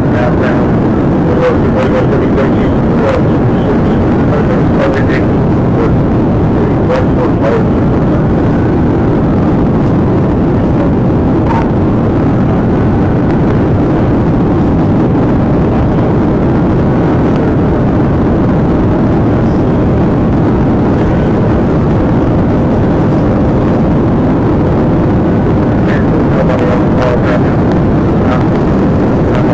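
Pursuing police patrol car at high speed: steady, loud engine, tyre and wind noise, with a faint tone slowly rising and falling over it.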